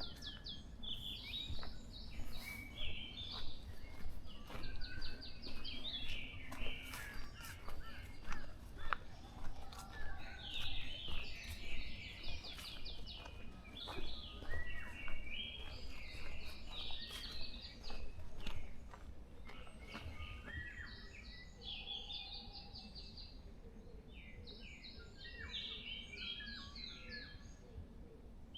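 Several small birds singing in forest, short quick chirping phrases overlapping one another, busy at first and thinning out and growing fainter about two-thirds of the way through, over a steady low rumble.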